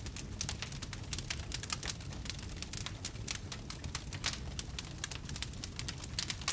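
Wood campfire crackling, with many quick irregular snaps and pops over a low steady rumble.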